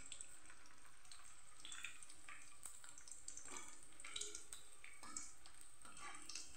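Pieces of edible gum (gund) frying in hot ghee in a kadai, a faint, irregular sizzle and crackle as they puff up.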